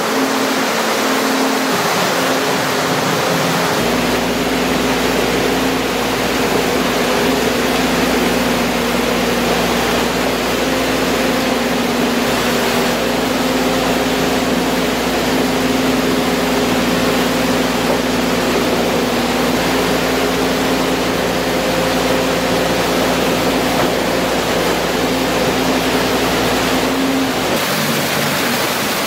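A heavy excavator's engine running steadily at an even pitch under a loud rushing hiss. A deep rumble joins about four seconds in and drops out near the end.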